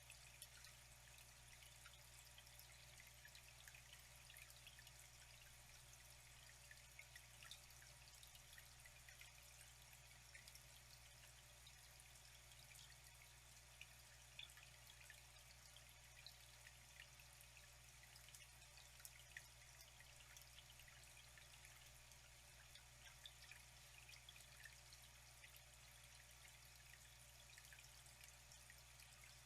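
Faint, steady flowing water, trickling, with many small drip-like splashes.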